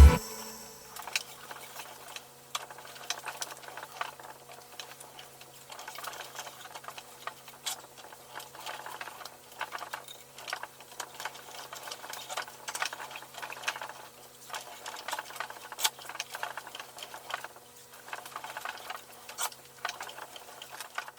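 Irregular light clicks and taps, scattered unevenly, over a faint steady hum.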